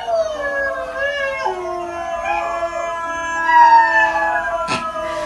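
Dogs howling together: long, wavering howls overlapping at different pitches, with a sharp click near the end.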